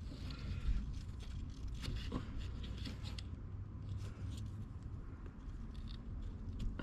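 Hands working at an electrical wiring connector on a Cat 953C track loader, making scattered small clicks and scrapes over a low steady rumble.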